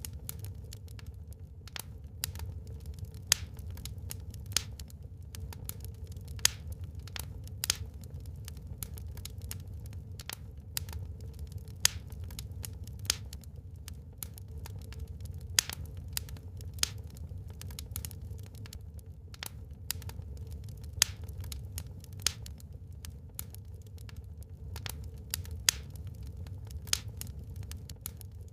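Wood fire burning in a fireplace: irregular sharp crackles and pops of burning wood, a few louder snaps, over a steady low rumble.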